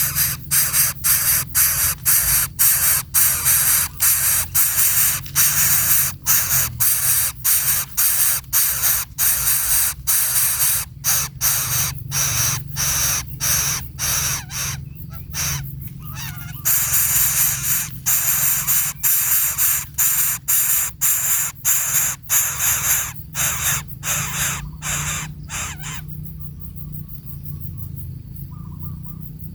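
A baby bird's harsh, hissing begging calls, repeated about twice a second, stopping a few seconds before the end; faint chirps follow.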